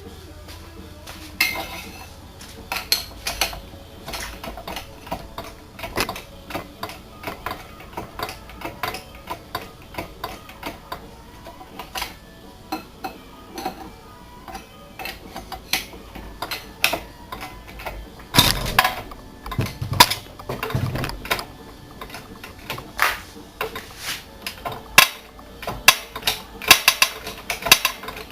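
Irregular metal clicks, clinks and clanks of hand work on an engine and engine hoist, with a heavier run of knocks and thuds about two-thirds of the way through.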